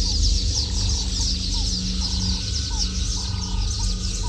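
Birds calling: a dense run of quick, high chirps, with short calls repeating a few times a second lower down, over a steady low rumble.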